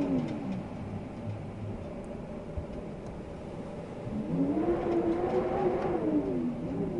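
Wind blowing in gusts with a low pitched whistle that swells and slides up and down. One gust dies away in the first second, a lull follows, and another gust rises about four seconds in and falls away near the end.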